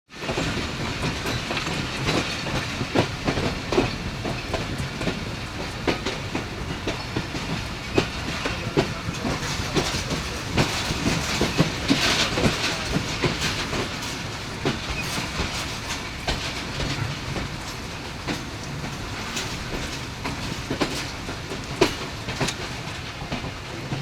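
Passenger train rolling through slowly, its wheels clacking irregularly over rail joints above a steady rumble that eases slightly toward the end.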